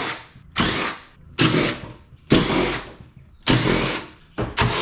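Power driver run in short repeated bursts, about one a second, six in all, backing out fasteners while an air conditioner unit is stripped for scrap.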